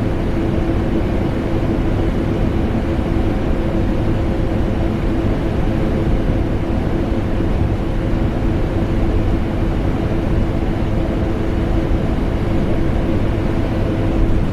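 Vacuum cleaner motor running steadily, blended with air conditioner noise: an unbroken drone with a steady hum tone over a deep rush of air.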